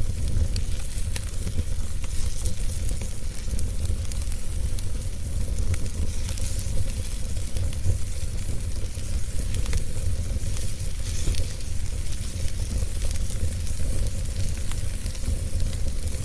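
Wood fire in a fireplace crackling, with scattered small pops and snaps over a steady hiss and a low rumble.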